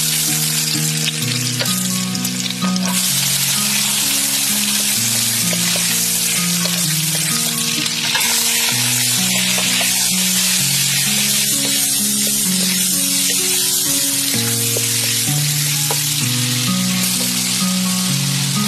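Oil sizzling hard in a steel wok as chopped aromatics, then sausages and shrimp, fry, with a wooden spatula stirring and scraping. The sizzle gets brighter about eight seconds in. A slow melody of background music plays under it.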